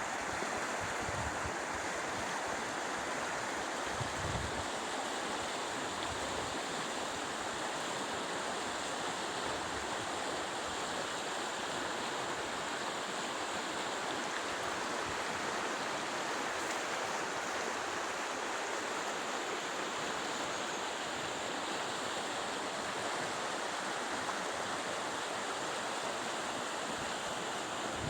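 Steady rushing of flowing water, even and unbroken throughout, with a few low bumps in the first few seconds.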